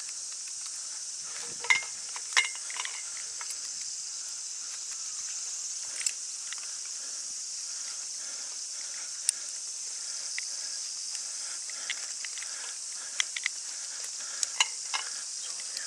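A steady, high-pitched insect chorus buzzes throughout, with scattered sharp clicks and knocks from gear being handled, several in a cluster near the end.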